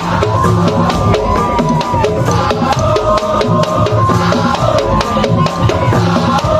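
Madurese ul-daul (tong-tong) ensemble playing: fast, dense drumming with a steady low drum pulse, and a sustained melody line above it.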